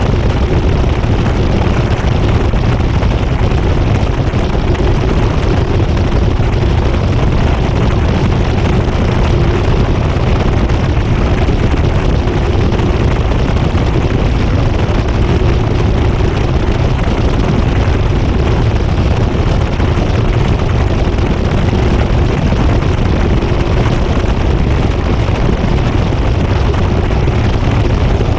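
GE GTW220ACKWW top-load washing machine in its high-speed spin, heard from a camera riding on the agitator: a loud, steady rumble with a constant hum.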